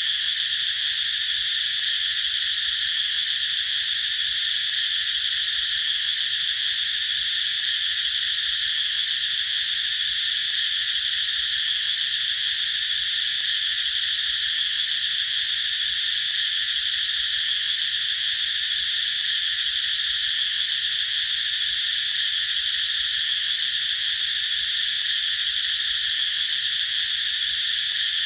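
Cicadas singing in chorus: a continuous high, buzzing drone that holds steady without pause.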